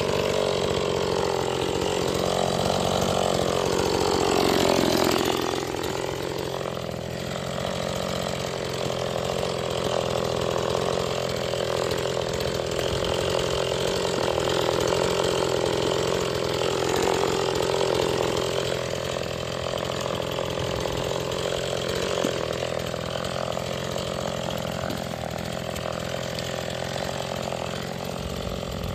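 Stihl MS 180 two-stroke chainsaw running at working speed through its break-in, its engine pitch wavering up and down with the load. The pitch rises about four seconds in and then drops sharply.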